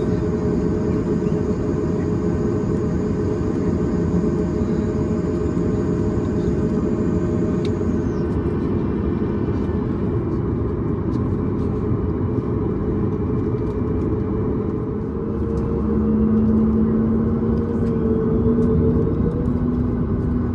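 Cabin noise of a Boeing 737 MAX 8 heard from inside: a steady rumble from its CFM LEAP-1B engines, with a high whine that fades about eight seconds in. From about sixteen seconds a low hum grows louder and holds.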